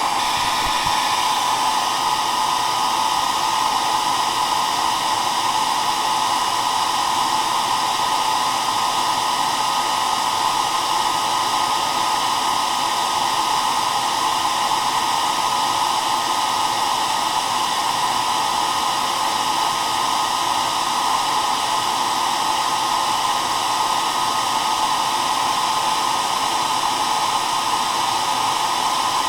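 Hair dryer running steadily, a constant airy rush of the blower with a faint steady whine over it.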